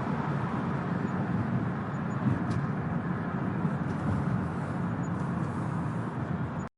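Rattly vehicle exhaust running steadily, a low, uneven, rough sound that cuts off suddenly at the very end.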